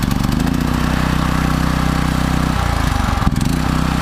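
Predator 212 cc single-cylinder four-stroke engine running steadily just after being started. About three seconds in its note dips briefly, with a sharp click, then settles back to the same steady run.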